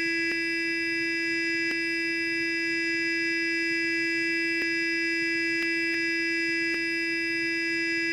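Sonic toothbrush motor buzzing: a steady, even hum on one pitch with bright overtones, broken by a few faint clicks.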